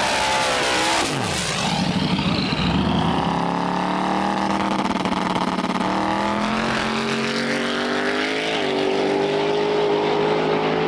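Drag race car engines: one sweeps sharply down in pitch about a second in, as a fast car passing by or coming off the throttle, then engines run steadily at low speed, with the pitch changing around six and eight and a half seconds.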